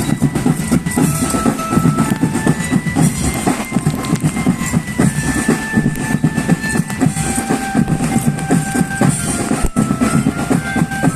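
Marching drum band playing: dense, rapid drumming under a melody of held notes that step from pitch to pitch.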